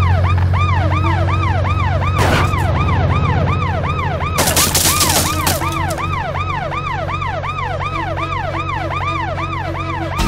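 Police car siren in a fast yelp, rising and falling about three times a second, over a steady low engine rumble. A burst of hiss cuts in briefly about four seconds in.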